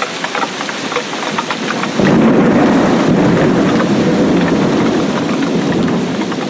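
Rain falling, with individual drops ticking close by. About two seconds in, a loud low rumble of thunder starts abruptly, carries on for several seconds, and eases off near the end.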